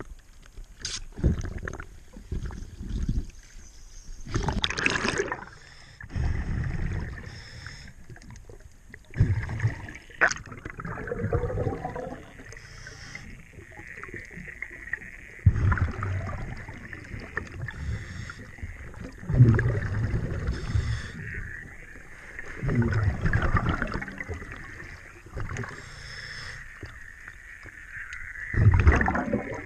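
A diver's regulator breathing underwater: a bubbling rumble of exhaled air about every four to five seconds, with a steady hiss between breaths.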